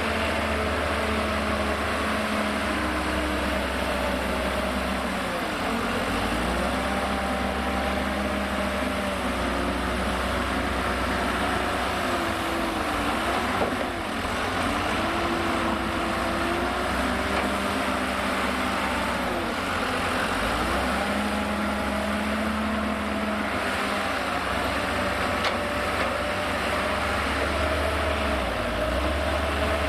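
Liebherr L534 wheel loader's diesel engine working, its pitch dipping and rising again every few seconds as the loader moves and lifts, over a steady low engine drone.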